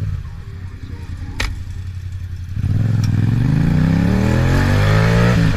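A vehicle engine runs low, with a single sharp click about a second and a half in. Then, about two and a half seconds in, it accelerates hard, its pitch rising steadily.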